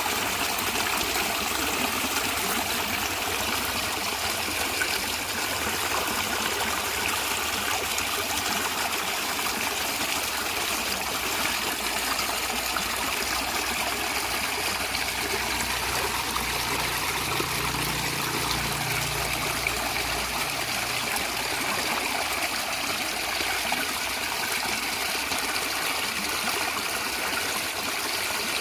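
A stream of running water gurgling and trickling steadily over stones, an even rushing hiss with no breaks.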